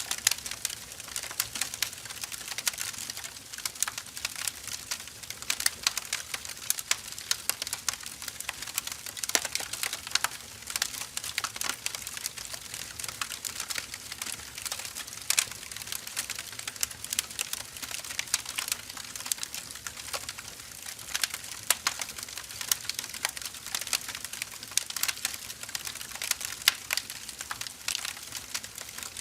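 Firewood burning steadily, with dense irregular crackles and pops over a soft hiss.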